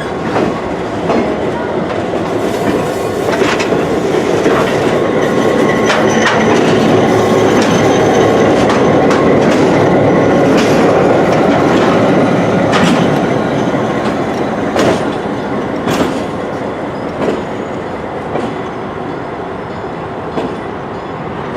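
A train rolling past, its wheels clicking over rail joints with some faint wheel squeal, loudest around the middle and easing off toward the end.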